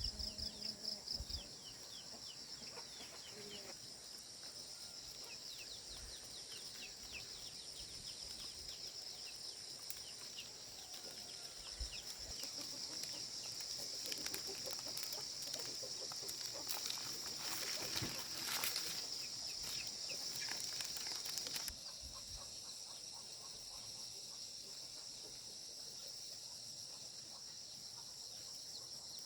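Outdoor farm ambience: a steady high insect shrilling with small bird chirps and chickens clucking. The insect sound swells for several seconds, then cuts off abruptly about two-thirds of the way through.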